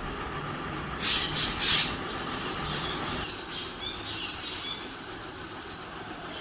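Birds squawking: two or three loud, harsh calls about a second in, then softer chirping calls, the sound of birds begging to be fed.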